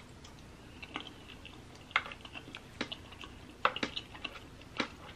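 Close-up, soft chewing of baked ziti: wet mouth clicks and smacks, with a few sharper clicks spaced about a second apart. Near the end, a wooden spoon digs into the pasta in its glass baking dish.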